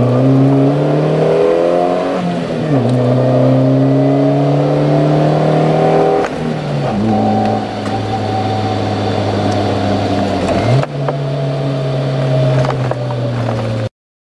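Subaru Pleo's 660 cc four-cylinder engine breathing through a homemade all-stainless muffler as the car pulls away: the exhaust note climbs steadily, drops sharply and climbs again three or four times, then cuts off abruptly. The muffler is built to sound quiet and open rather than boomy.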